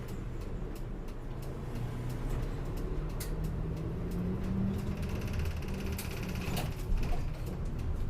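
Route bus running, heard from inside the cabin: steady engine and road noise with scattered rattles, the engine note rising a little partway through. A brief high-pitched ringing sound comes in the second half.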